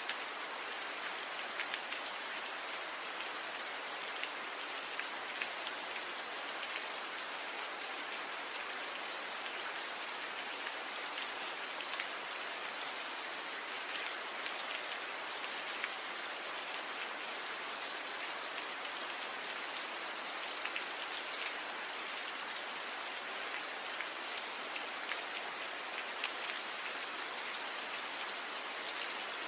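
Steady gentle rain falling on tree leaves: an even hiss with many scattered louder drop taps.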